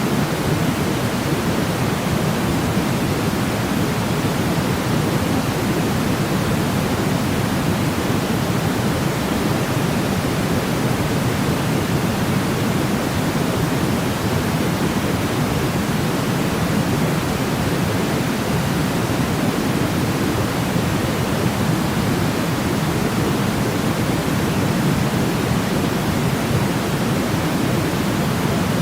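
Steady white noise of the kind played as a baby sleep aid: an even, deep hiss weighted toward the low end that never changes in level.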